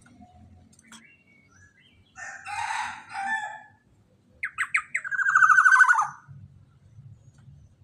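Loud bird calls: a harsh, noisy call about two seconds in, then a run of quick notes that runs into a long, rapidly pulsed call falling in pitch, the loudest part, ending about six seconds in.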